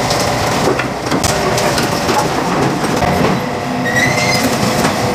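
Excavator working with its engine running, with knocking and clattering as logs are loaded into a truck bed. A brief high squeal about four seconds in.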